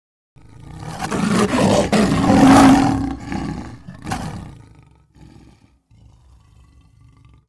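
A lion roaring, a film sound effect. The roar swells from about half a second in, peaks near the middle, surges again briefly around four seconds and fades out, followed by low, quiet rumbling.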